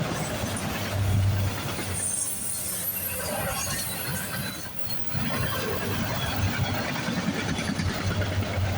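CSX freight train cars rolling past: a steady rumble and rattle of steel wheels on the rail, with a brief lull about four and a half seconds in.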